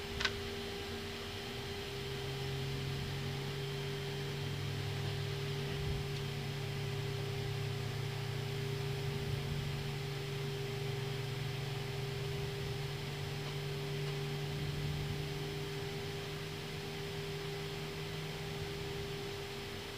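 Steady hum of an Airbus A321neo cockpit on the ground with an engine running, with a constant mid-pitched tone from fans and equipment. A low drone joins about two seconds in and fades near the end.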